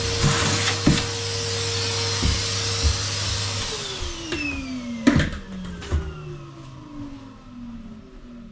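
A mains power tool's motor running at full speed, then switched off about three and a half seconds in and spinning down with a falling whine over the following seconds. A few sharp knocks come through it.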